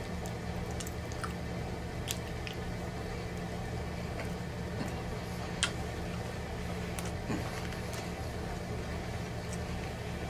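Close-miked chewing of a bite of pizza crust: scattered wet mouth clicks and smacks over a steady low hum.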